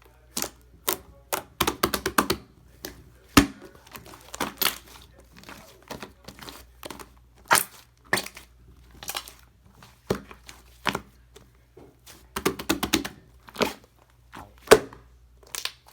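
Chocolate slime being squeezed and pressed by hand, making irregular sharp clicks, pops and crackles as air pockets burst, with denser flurries now and then.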